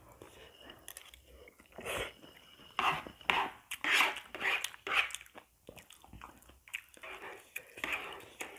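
Close-up chewing and biting of Indomie Mi Goreng instant fried noodles with fried egg, in irregular bursts, with a metal spoon scraping noodles off a plastic plate.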